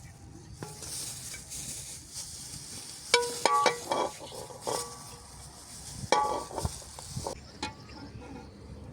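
A metal utensil stirring and clinking against a cooking pan while food sizzles. The clinks ring with a clear tone and come in two bunches, about three seconds in and about six seconds in. The sizzling hiss stops suddenly near the end.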